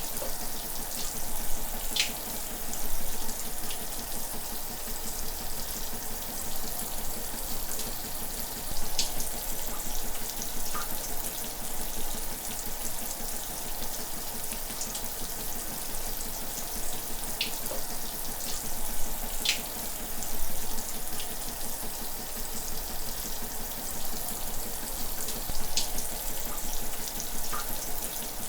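Shower running steadily, an even hiss of spraying water with a few sharp drip or splash ticks scattered through it.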